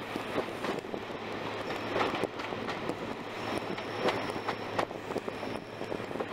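Diesel-hauled passenger train running, heard from an open coach window: a steady rushing noise with a faint low hum, and the wheels knocking sharply over rail joints several times.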